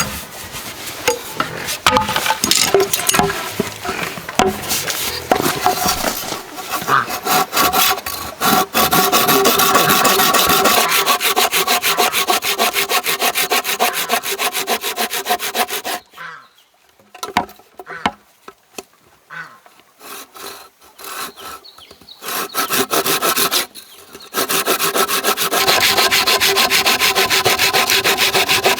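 Bamboo being cut with a hand saw: fast, even strokes with a ringing note from the hollow pole. The sawing stops for several seconds about halfway through, with only a few scattered knocks, then starts again.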